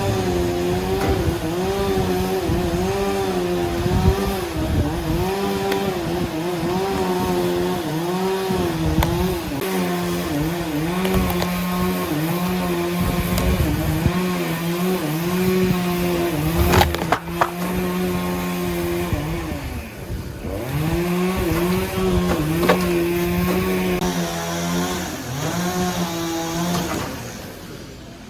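Chainsaw running at high speed through a log, its pitch dipping again and again as the chain bogs in the cut. There are a couple of sharp knocks a little past halfway, and the saw drops away near the end.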